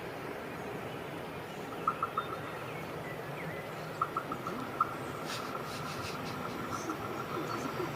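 Quiet outdoor ambience with a bird calling in short quick runs of three or four clear chirps, repeated several times.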